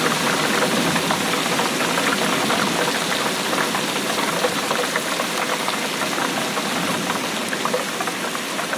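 Steady rainfall: a dense patter of many small drops over a constant hiss.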